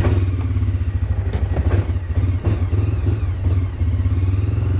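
Engine just caught on a cold start, running a little unevenly before settling into a steadier run about four seconds in.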